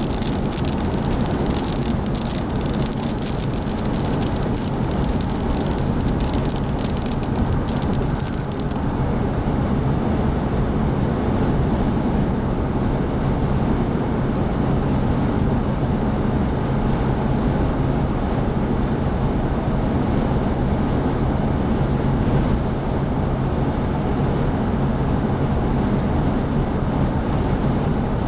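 Steady road and wind noise from a vehicle driving at highway speed in strong gusting wind, with a low engine drone underneath. A patter of sharp ticks runs over it and stops about nine seconds in.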